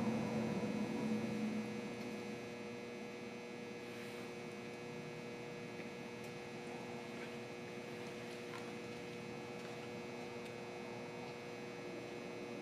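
Steady electrical hum made of several fixed tones over a faint background hiss, a little louder in the first second or two, then level.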